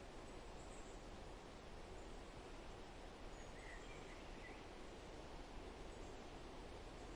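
Faint forest ambience: a steady hiss of background noise with a few faint, short bird chirps, a small cluster of them about four seconds in.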